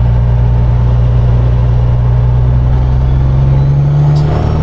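Semi-truck diesel engine running steadily under way. Its low drone climbs a little in pitch and then drops near the end.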